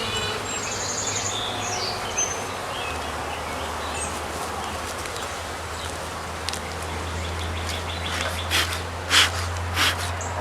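Honeybees humming steadily around an open hive, with birds chirping during the first few seconds and a few short sharp sounds near the end.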